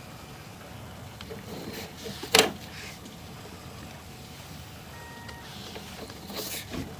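Sewer inspection camera and its push cable travelling through the pipe: a steady low rumble, with one sharp knock about two and a half seconds in and softer knocks near the end.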